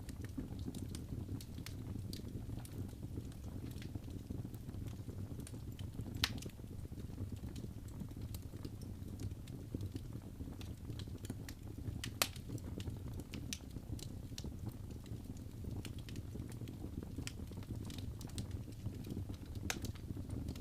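Wood fire burning in a fireplace: a steady low rumble of the flames with frequent small crackles and snaps, and a couple of louder pops about six and twelve seconds in.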